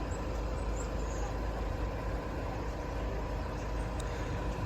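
Steady low rumble of idling vehicle engines, with a faint constant hum.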